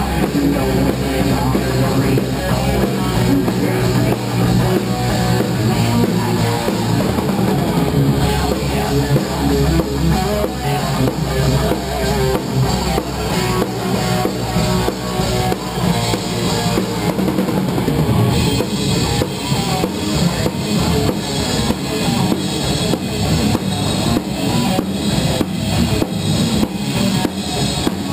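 Live rock band playing, with the drum kit loudest: bass drum and snare under the band. About two-thirds of the way through, a steady run of cymbal strokes comes in.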